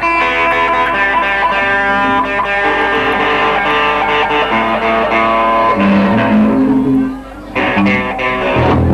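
Live guitar playing a melodic line of held, ringing notes, dipping briefly about seven seconds in, then coming back with struck chords.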